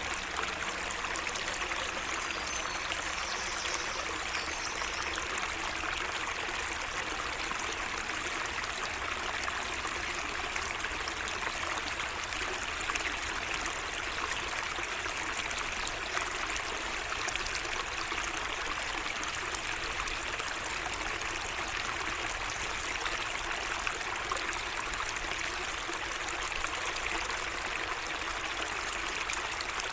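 Small garden stream running steadily, a continuous trickling and babbling of water.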